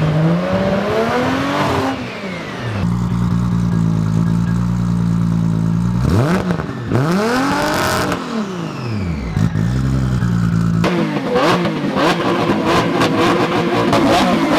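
A car engine being revved: its pitch climbs and drops back about three times, holding a steady note between the revs.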